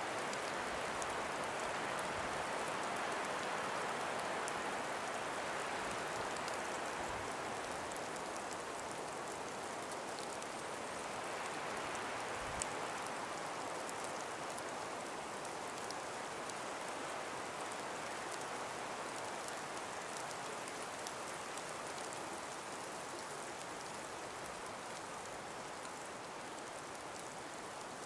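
Gentle breeze through an ice- and snow-laden forest: a steady rushing hiss that slowly eases off, with faint scattered ticks.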